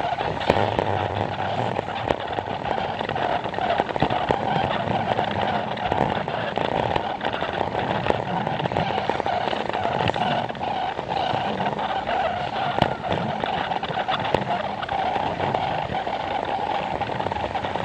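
Plarail toy train running on plastic track, its small motor and gears whirring steadily with scattered clicks from the track joints. Voices of a crowd chatter underneath.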